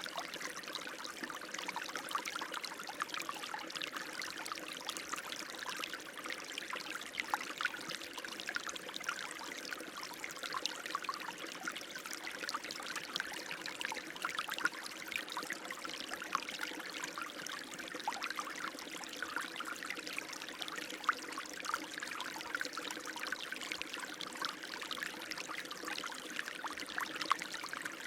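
Running water flowing and trickling steadily, with many small splashes and gurgles.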